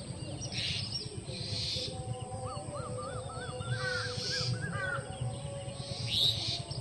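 Several birds calling outdoors, one of them singing a quick series of rising-and-falling notes through the middle of the stretch.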